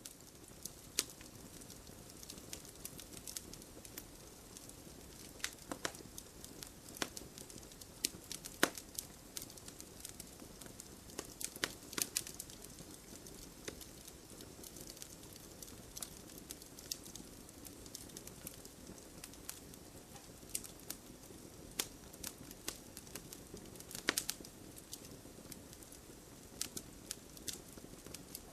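Campfire of burning wood crackling: irregular sharp pops and snaps over a steady soft hiss, with a few louder pops scattered through.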